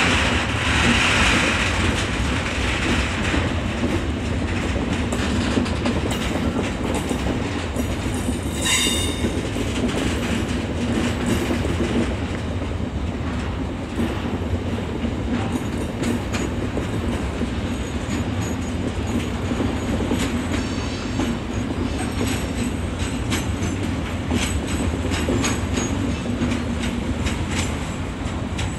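Long freight train of intermodal wagons rolling through the station, a steady rumble with wheels clacking over rail joints. A high squeal of wheels or brakes in the first couple of seconds, and a brief high-pitched squeal about nine seconds in.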